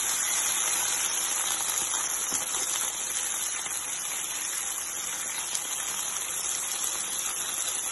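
Minced garlic, ginger and green chili with a little ketchup, soy sauce and rice vinegar frying in hot oil in a pan: a steady sizzling hiss.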